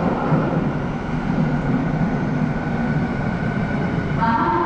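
Commuter train running at a station platform: a steady rumble of wheels on rail, with a pitched tone setting in near the end.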